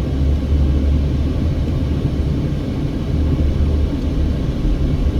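Steady low rumble of a car driving slowly, heard from inside the cabin: engine and tyre noise on the road.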